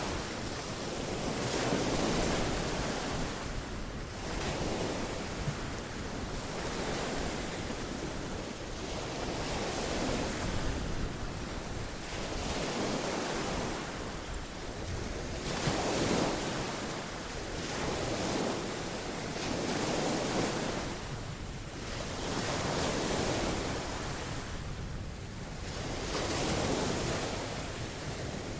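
Atlantic Ocean surf washing onto the shore, swelling and fading every three to four seconds.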